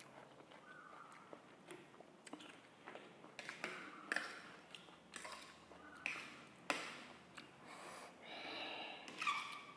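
Wet chewing and biting of juicy watermelon chunks, in short irregular bursts, with a few sharp clicks of a fork against a metal tray.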